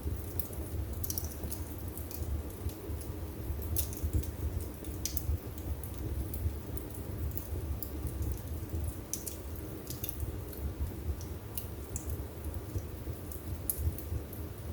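Wood burning in a fireplace: irregular sharp crackles and pops over a steady low rumble of the flames.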